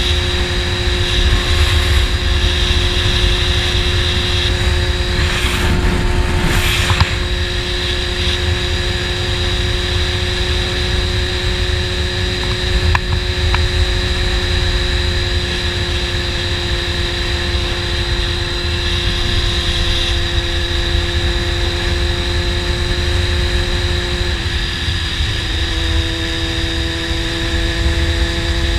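Honda CBR600 inline-four sport bike engine running at a steady cruise through an aftermarket slip-on exhaust, with wind rushing over the microphone. The engine note drops slightly near the end, and there is a brief rise in rushing noise about six seconds in.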